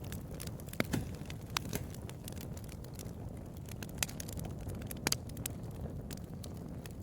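Bonfire burning: a steady low rush of flames with sharp, irregular crackles and pops, a few of them louder snaps.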